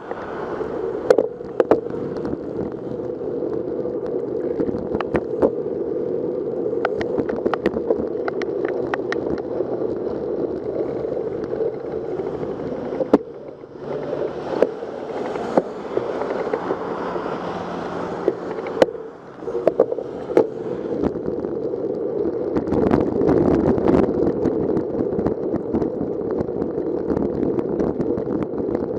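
Steady wind and road noise of a moving bicycle on the camera's microphone, with scattered sharp clicks and rattles. It drops away briefly twice and gets louder after about two-thirds of the way through.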